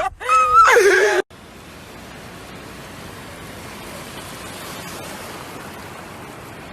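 A man's excited shout for about a second, then a sudden cut to a steady, even rushing noise with no distinct events.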